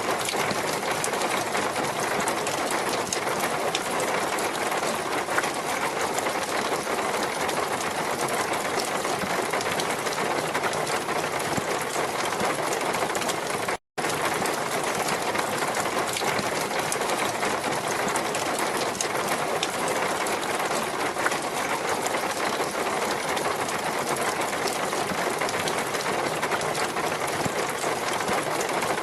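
Steady rushing of water, an even noise that holds the same level throughout with no swell of waves; it cuts out for a split second about halfway through.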